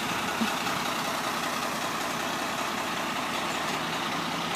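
Steady road-vehicle engine and traffic noise, a motor running at an even level with no rise or fall.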